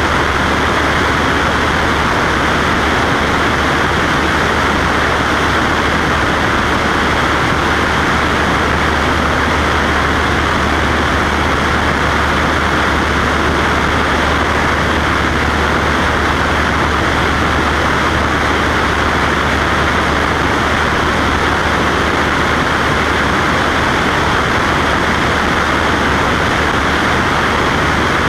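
Cessna Skywagon's piston engine and propeller droning steadily in flight, an even unbroken noise with a constant low hum underneath.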